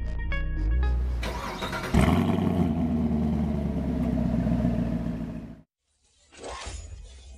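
Chevrolet Camaro's 6.2-litre V8 starting with a sudden flare about two seconds in and then running steadily, under the tail of fading synth music; the engine sound cuts off abruptly after a few seconds.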